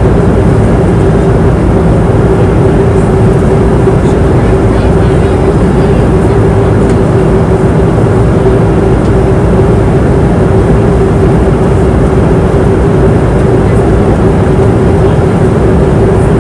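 Airliner cabin noise in flight: a loud, steady rush of engine and air noise with one constant humming tone running through it.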